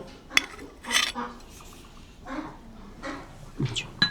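Cutlery and dishes clinking, with a few sharp clinks and knocks.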